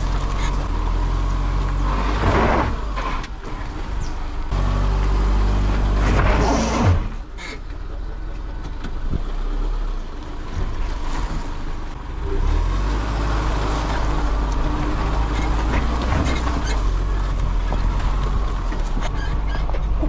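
Subaru Forester's flat-four boxer engine running under way on a rough bush track, with knocks from the tyres and suspension over the ground. Two short, louder rushes of noise come about two and six seconds in.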